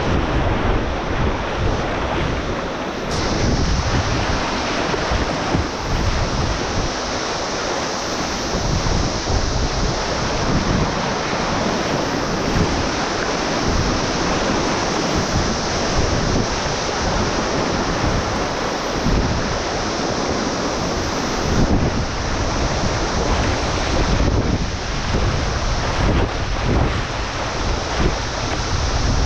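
Rushing river water around a whitewater kayak, a steady loud wash, with wind buffeting the microphone in gusts.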